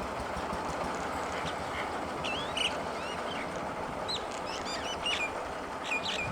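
Small birds chirping: many short, sharp chirps from about a second and a half in, over a steady background noise.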